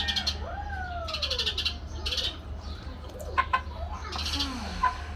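Chickens calling, with gliding calls and several bursts of rapid high chirping, and a few sharp clicks about three and a half seconds in and near the end, over a steady low hum.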